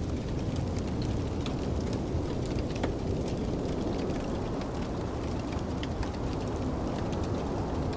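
Wood fire crackling, with frequent small sharp pops scattered throughout, over a steady low rush of snowstorm wind.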